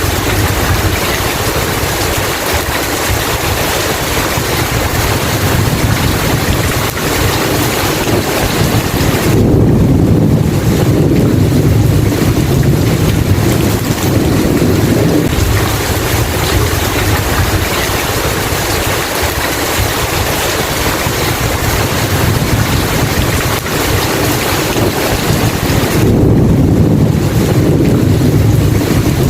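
Steady heavy rain hiss with low rolling thunder: a long rumble swells about ten seconds in and lasts several seconds, and another starts near the end.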